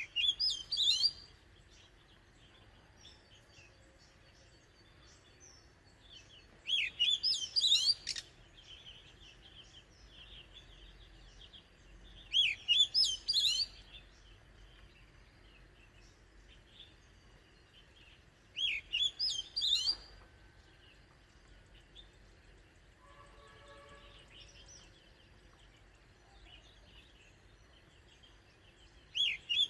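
Oriental magpie-robin singing: short bursts of quick, rising and falling whistled notes, repeated about every six seconds, with faint chirps in between.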